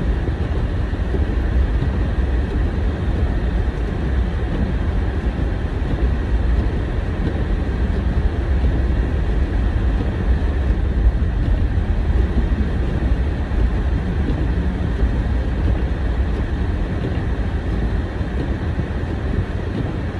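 Steady low rumble of a car driving, its tyre and engine noise heard from inside the cabin.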